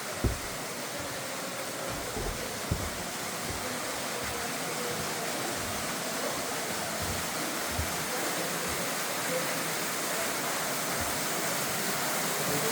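Waterfall rushing steadily, growing slightly louder, with a few brief low thumps on the microphone.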